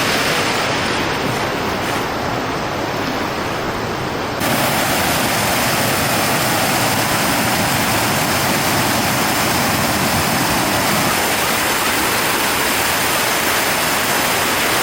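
Rushing water of a mountain stream flowing over rocks: a steady, even rush that gets louder and fuller about four seconds in.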